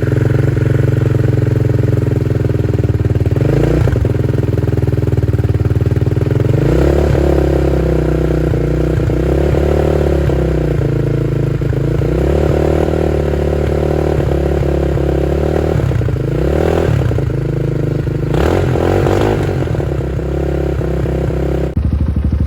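10ten 250RX dirt bike's 250cc single-cylinder four-stroke engine idling as it warms up just after starting, the revs rising briefly and settling back a few times.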